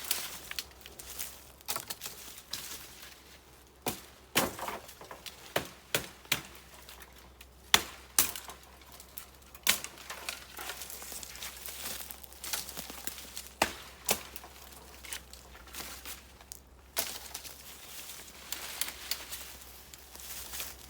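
Dry dead wood cracking and snapping in irregular single breaks, with rustling of dry leaves and twigs in between.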